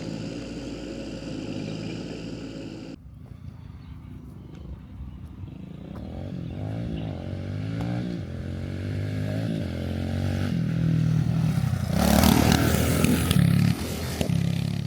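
Motorcycle engine revving up and down over and over, loudest for a moment near the end. For the first few seconds a steady engine runs until it cuts off suddenly.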